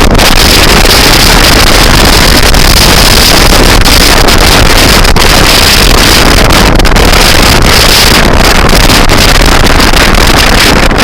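Loud, steady rushing noise of wind on the microphone, with a faint steady high hiss.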